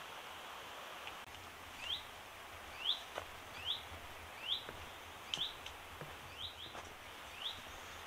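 A small songbird repeating a short rising call note, about one a second, starting about two seconds in, over a steady outdoor hiss, with a few soft clicks.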